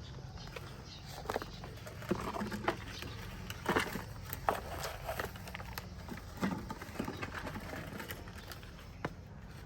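Irregular light clicks and knocks, a dozen or so at uneven spacing, over a low steady hum.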